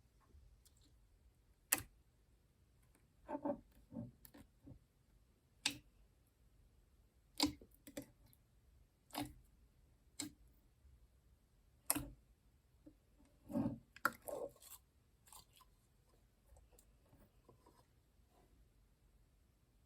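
Clear slime being squeezed and pressed by hand, giving scattered sharp clicks and pops every second or two with a few softer squishes in between.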